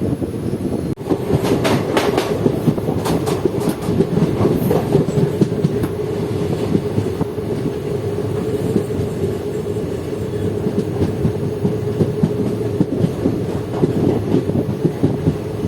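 Passenger train coaches running along the track with a steady rumble. A clatter of wheels over rail joints comes in the first few seconds.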